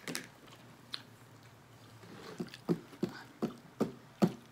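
Close-up chewing of food, with short wet mouth clicks. A couple of isolated clicks come first, then from about halfway the chewing settles into a steady rhythm of about two to three clicks a second.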